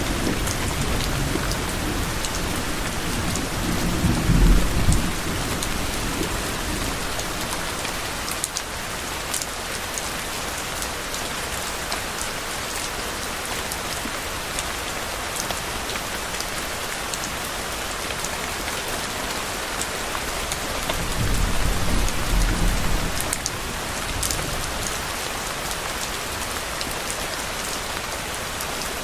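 Steady heavy rain falling, with scattered close drop ticks. Low thunder rumbles twice, once a few seconds in and again about three-quarters of the way through.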